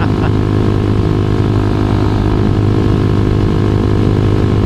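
2012 Honda CBR250R's single-cylinder engine running at a steady cruise, its pitch holding level.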